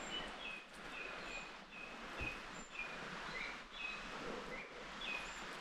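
A bird calling in a rapid series of short high chirps, about three a second, with a few higher notes, over a steady background hiss.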